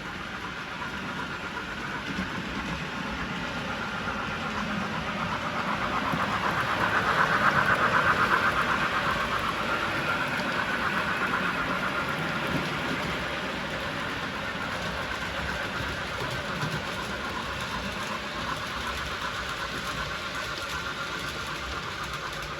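Model railway train running along the layout's track, its motor whine and wheel noise growing louder to a peak about eight seconds in as it passes, then easing off.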